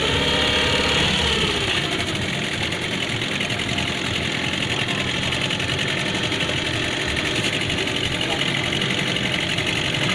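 Boat engine running steadily under way, with a brief pitch swell in the first two seconds.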